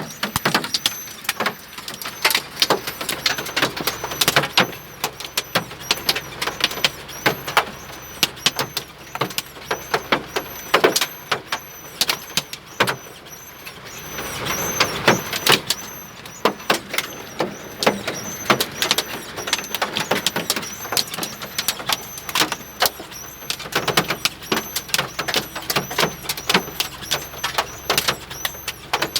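Hailstones pelting hard surfaces: a dense, irregular clatter of sharp clicks and knocks, swelling into a heavier rush of noise about halfway through.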